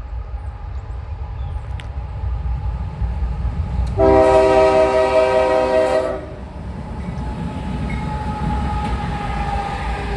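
CSX intermodal freight train's diesel locomotives passing with a steady low rumble; their air horn sounds one loud blast about four seconds in, lasting about two seconds.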